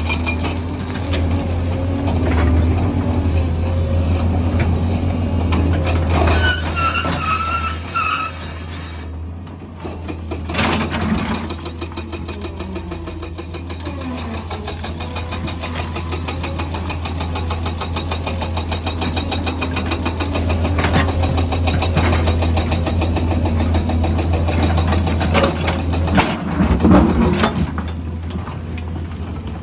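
Heavy construction machinery running steadily with a deep, continuous engine drone, and a brief wavering squeal from about six to eight seconds in.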